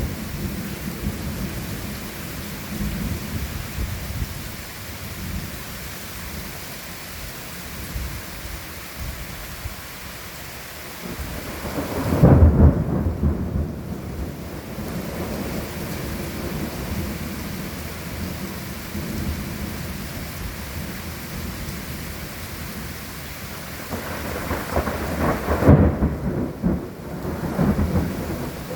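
Steady rain falling through a thunderstorm, with thunder rumbling low throughout. Two louder rolls of thunder come through, one a little before halfway and one near the end.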